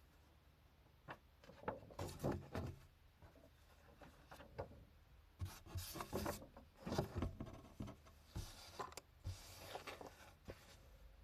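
Hand-drawing strokes on paper for analog manga work: irregular scratchy strokes of a drawing tool, coming in short clusters, a few seconds apart.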